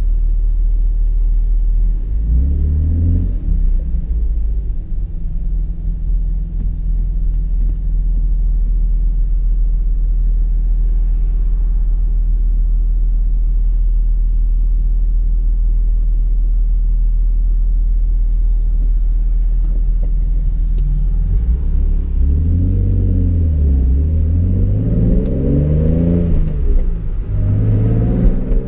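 Toyota Supra's straight-six engine heard from inside the cabin, droning steadily at cruise, then accelerating hard near the end: the engine pitch rises, drops back at each upshift and climbs again.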